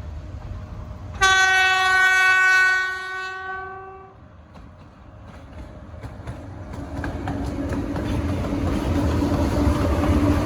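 A train horn sounds one long blast, starting about a second in and lasting about two seconds. Then the rumble and wheel clatter of an approaching train grows steadily louder.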